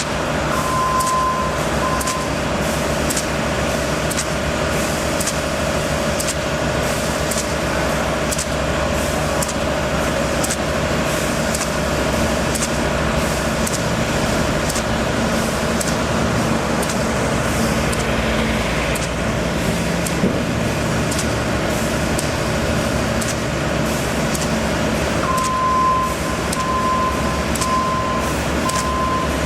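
Construction vehicle's engine running steadily, with a faint ticking about twice a second; its reversing alarm beeps in the first two seconds and again through the last few seconds.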